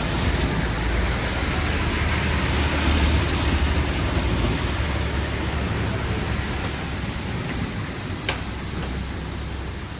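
Steady rain hissing, with a deep low rumble that swells in the first few seconds and then dies away, and a single sharp tick about eight seconds in.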